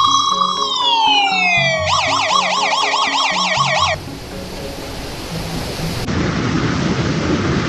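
Emergency vehicle siren in a slow wail that rises and falls, then switching to a fast yelp of about four cycles a second, over background music with a stepping bass line. About four seconds in the siren and music cut off suddenly, leaving a steady rushing noise.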